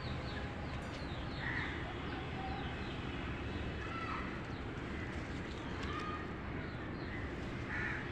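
Birds chirping, many short high calls repeated over a steady background rumble.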